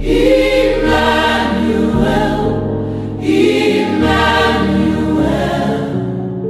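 Background music: a choir singing a gospel-style song over held bass notes, with a new sung phrase starting about three seconds in.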